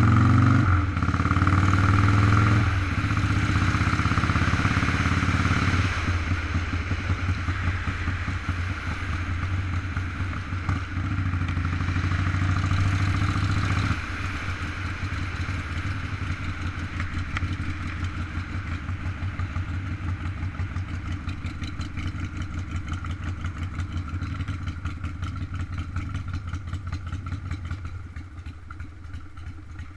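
Motorcycle engine running under way. Its sound steps down about six seconds in and again about fourteen seconds in, then fades slightly near the end.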